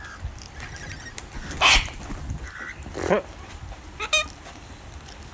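Cockatoos screeching: one loud, harsh screech about a second and a half in, then two shorter calls around three and four seconds in.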